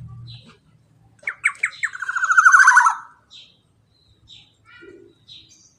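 Black-naped oriole (kepodang) singing: a few sharp notes about a second in, then a loud, rapid, buzzing trill that ends about three seconds in, followed by a few faint short calls.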